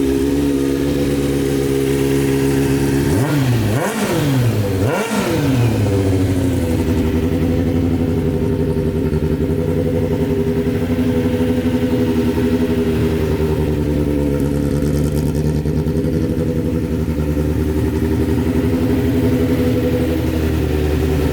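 Kawasaki ZX-9R's inline-four engine idling steadily, blipped twice in quick succession about three and five seconds in, the revs rising and falling each time before it settles back to idle.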